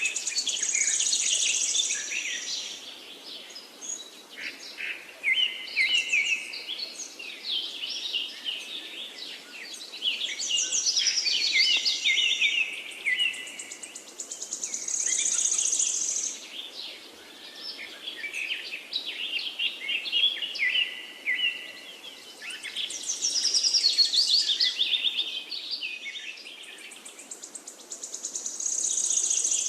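Many birds chirping and singing at once, a busy chorus of quick high chirps and trills that grows louder and fades again every several seconds.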